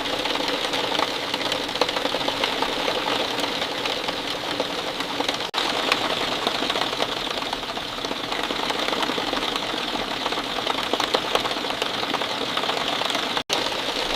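Steady rain falling, a dense patter of drops. It cuts out for an instant twice, about five seconds in and near the end.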